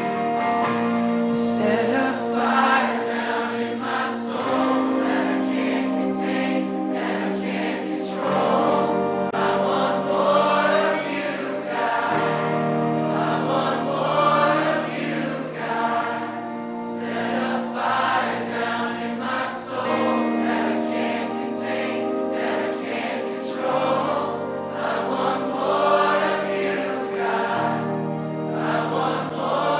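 Gospel worship song with a choir singing over sustained instrumental chords.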